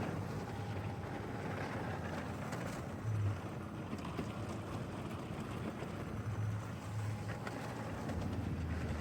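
Snowmobile engine running steadily under way, with a low drone that swells now and then.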